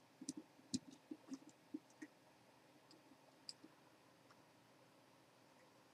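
Faint, scattered clicks and taps of small metal atomizer parts and tools being handled, a quick run of them in the first two seconds and a couple more in the middle, otherwise near silence.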